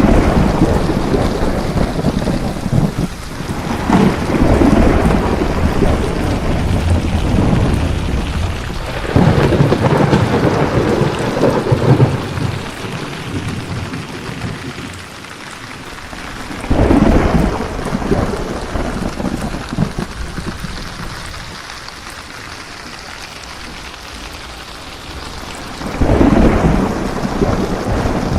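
Steady rain with rolls of thunder: several rumbling swells, loudest near the start, around a third of the way in and again near the end, with a quieter stretch of rain alone in between.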